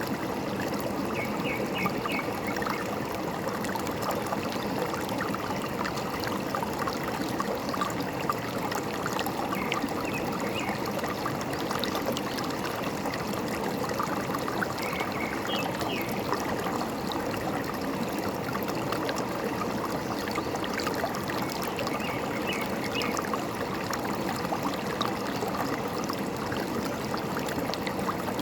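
Forest stream running steadily over stones, with birds chirping a few quick notes now and then.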